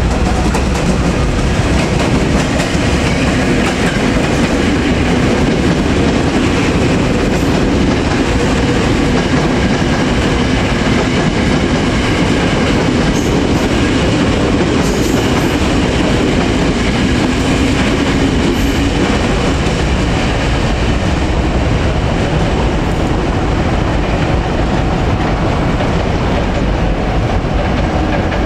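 Electric commuter trains running past on the line, wheels clacking over the rails with a steady hum, loud and continuous throughout.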